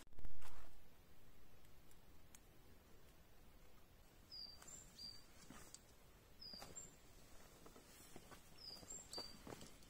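A small bird giving short, high, slightly falling chirps, about one a second from about four seconds in, over faint footsteps. A brief low thump at the very start is the loudest sound.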